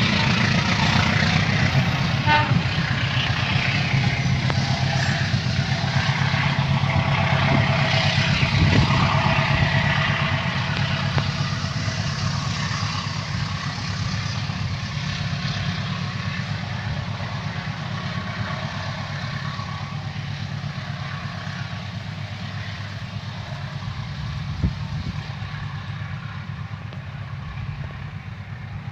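Diesel locomotive engine running steadily as a train pulls away, its drone and the train's rolling noise slowly fading. A single short click sounds near the end.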